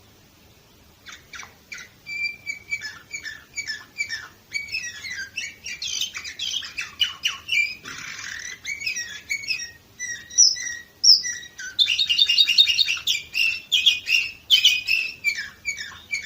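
Domestic canary singing one long song of repeated note phrases and trills that starts about a second in, with a brief harsh rasping stretch midway and a loud fast trill near the end; the song stops at the end.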